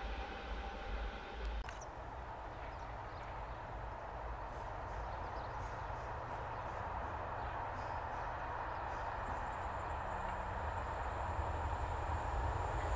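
A train approaching: a steady rumble growing slowly louder, with a thin high whine joining about nine seconds in.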